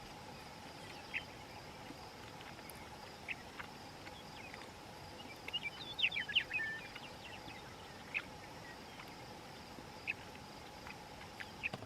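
Faint evening prairie sounds: a steady high insect trill, likely crickets, with scattered short bird chirps and a quick flurry of falling notes about six seconds in.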